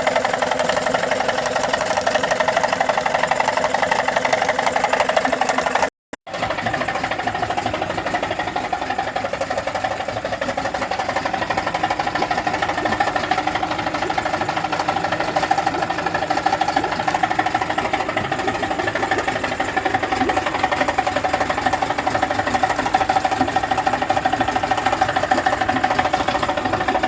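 Tohatsu 18 hp two-stroke outboard motor running steadily with a fast, even knocking clatter, the knock its owner is showing. The sound drops out for a moment about six seconds in.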